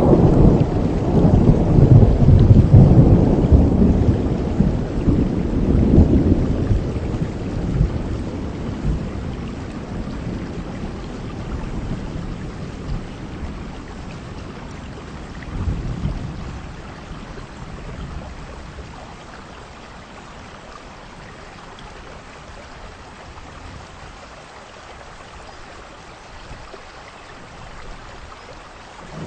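Heavy rain falling steadily while a long roll of thunder rumbles through the first several seconds and slowly dies away, with a smaller rumble about halfway through.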